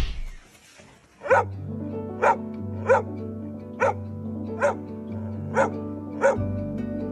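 A dog barking about seven times, roughly once a second, over steady background music.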